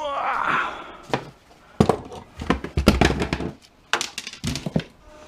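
Parts of an old electric coil-burner stove being worked apart by hand: a short ringing scrape of metal, then a string of sharp knocks and clanks.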